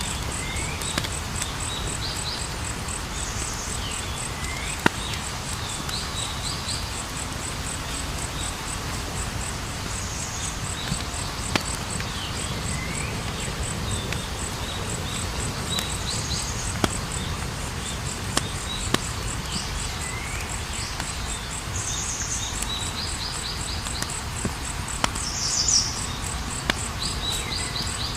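Campfire crackling with scattered sharp pops over a low steady rumble. Crickets chirp steadily throughout, and a bird gives short rising calls and trills every few seconds.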